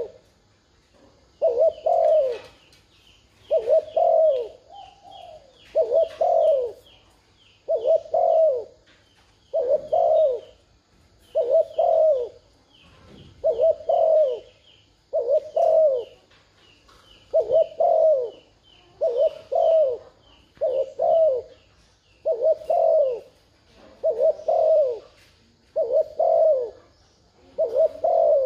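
Spotted dove giving 'thúc gù' coos, short coo bursts of two or three notes repeating about every two seconds: the courtship coo played as a lure to provoke other doves into calling. A smaller bird chirps in quick high series between the coos.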